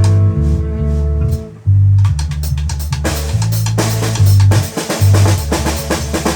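A band playing: bass guitar holding low notes under drum kit, with a chord ringing out in the first second or so. About three seconds in, the drums and cymbals get busier.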